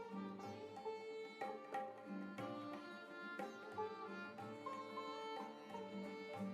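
Instrumental background music led by a plucked, sitar-like string instrument, with regular note attacks and a light percussion pulse.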